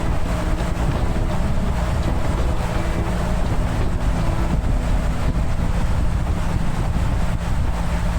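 Wind buffeting the camera microphone while riding, over the steady low drone of the BMW R1300 GS's boxer-twin engine at cruising speed.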